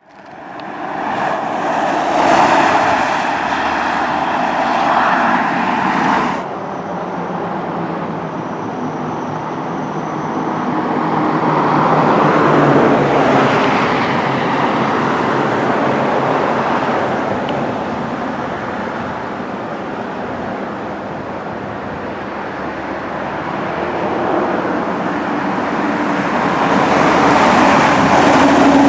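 Road traffic: vehicles passing on a street, the sound swelling and fading as they go by. A louder stretch stops abruptly about six seconds in.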